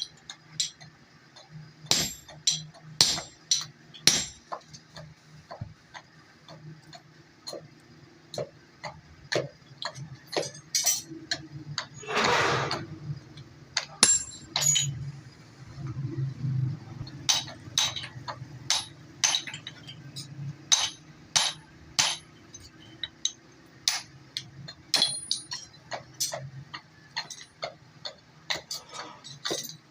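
Hammer blows on metal at an anvil while an axe head is forged: irregular, sharp strikes, some ringing, coming in quick runs and single knocks. A brief scraping hiss about twelve seconds in, and a steady low drone underneath.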